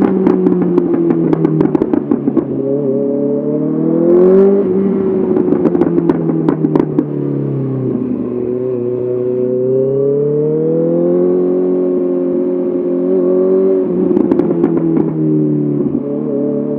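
Honda CBR 650R inline-four through an SC-Project SC1R exhaust, revs rising and falling as the rider works the throttle and gears. Bursts of popping and crackling from the exhaust come as the revs drop, near the start, around five seconds in, and again near the end.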